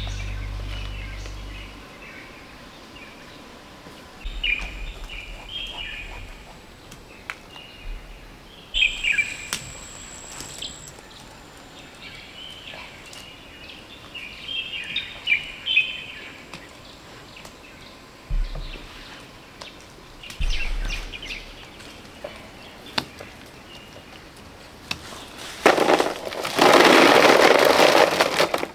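Small birds chirping on and off in woodland, with a few faint knocks. Near the end, a loud burst of noise lasts about three seconds.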